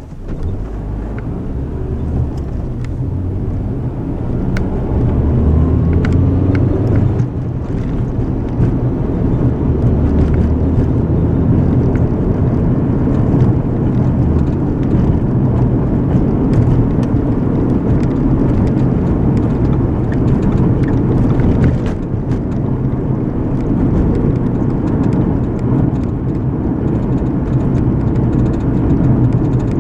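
Car engine and tyre noise heard from inside the cabin as the car pulls away, rising in pitch and loudness over the first several seconds, then settling into a steady cruise.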